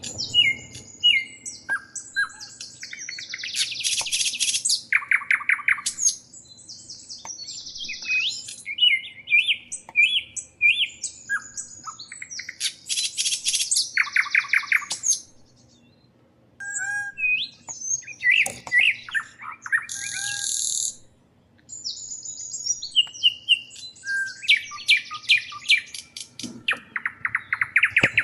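Small birds chirping and twittering in bursts of high-pitched calls and fast trills, with short pauses between bursts.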